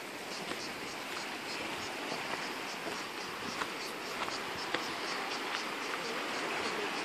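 European cicadas singing: a steady, high buzzing hiss with faint repeated pulses in it.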